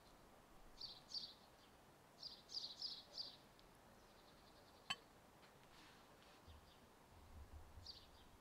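Faint bird chirps over quiet background hiss: a few short clusters of high calls, with a single sharp click about five seconds in.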